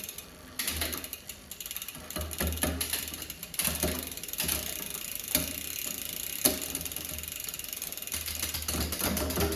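Mountain bike drivetrain turned by hand: the chain runs through the new SRAM GX rear derailleur and cassette with rapid ratcheting clicks, broken by a few sharper clicks, while the shifting is being adjusted.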